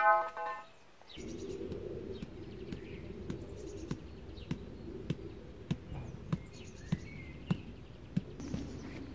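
Small birds chirping on and off over a steady low rumble, with a sharp click about every 0.6 s. A brief, loud buzzing tone sounds at the very start.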